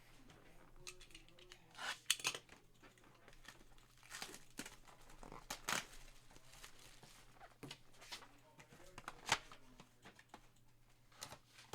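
Trading-card box packaging being torn open and crinkled by hand, in short scattered bursts of tearing and rustling.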